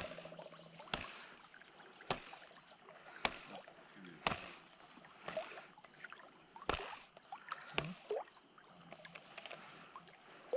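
Canoe being paddled: a stroke about once a second, each with a short sharp knock, with water gurgling and dripping between the strokes.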